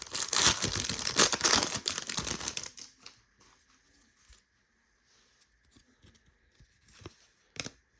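Foil trading-card pack wrapper being torn open and crinkled for about three seconds, then a few light clicks as the cards are handled.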